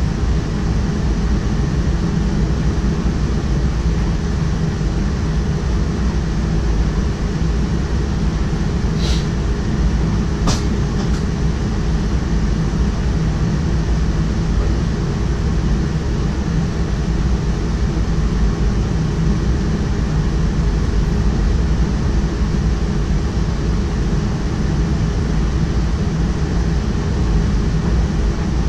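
Steady low rumble of an electric locomotive-hauled train running along the track, heard inside the driver's cab. Two brief, sharp high-pitched sounds come about nine and ten and a half seconds in.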